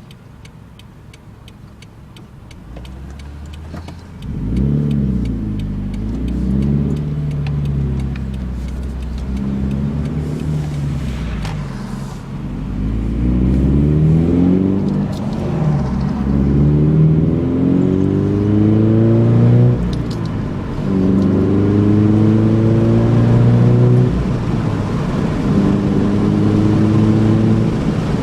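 Car with an aftermarket catback exhaust running low for a few seconds, then pulling away and accelerating up through several gears. The exhaust note rises in pitch in each gear and drops back at each shift, heard through open windows.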